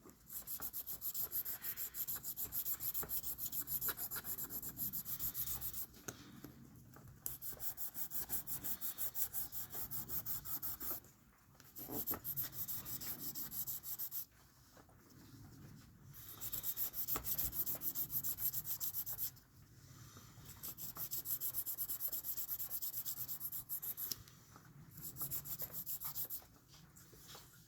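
A watch crystal being hand-sanded with 1,000-grit sandpaper: rapid back-and-forth rubbing strokes. They come in runs of a few seconds, with short pauses between them. This is one of the finer stages of working the scratches out of the crystal.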